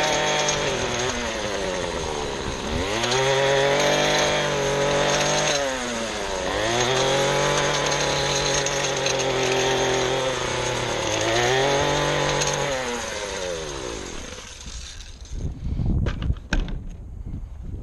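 Small two-stroke engine of a handheld lawn tool running at full throttle, easing off and revving back up three times, then winding down and shutting off about 15 seconds in. Clicks and knocks of the tool being handled follow.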